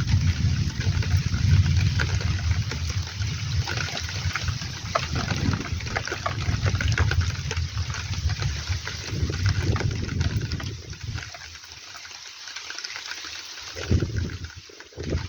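Heavy rain falling steadily, with a low rumble that runs through most of the first eleven seconds, drops away, then swells again briefly near the end.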